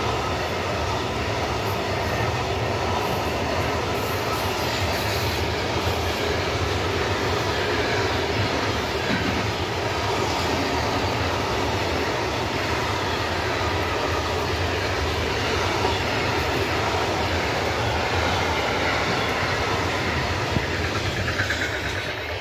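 Freight train of pocket wagons carrying lorry trailers rolling past at speed: a loud, steady rush and rumble of wheels on rail. It eases slightly as the last wagons pass near the end.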